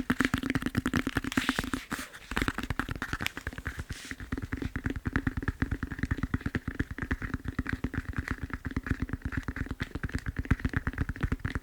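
Fingertips tapping fast on a foam massage roller: a rapid, even run of many taps a second, with a short break about two seconds in.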